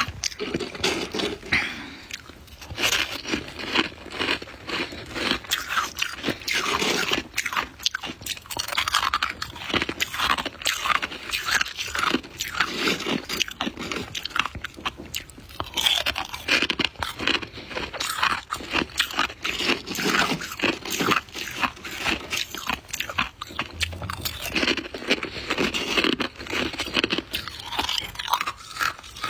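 Close-up biting and chewing of soft white ice: dense, irregular crunches that follow one another without pause.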